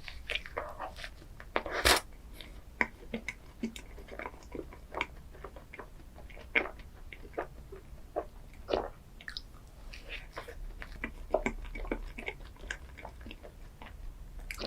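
Close-miked eating of chocolate desserts: bites and chewing with many small, sharp crackles, the loudest about two seconds in.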